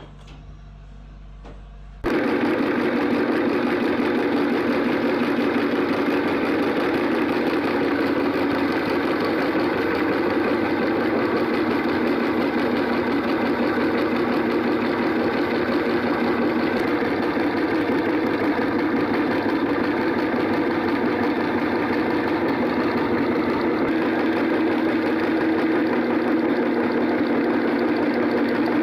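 Electric meat grinder's motor switching on abruptly about two seconds in and running steadily.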